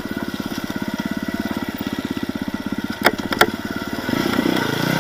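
Off-road race vehicle's engine running at low revs with a fast, even pulse, picking up and getting louder about four seconds in. Two sharp knocks sound about three seconds in.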